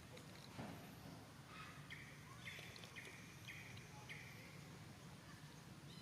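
A faint run of about five short, high-pitched animal chirps, roughly two a second, over a low steady hum.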